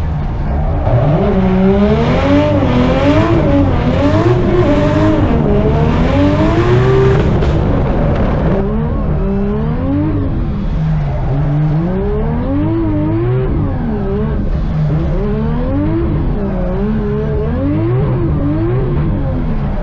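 Drift car engine revving up and down over and over as it is driven through a drift, with loud tyre noise over roughly the first eight seconds.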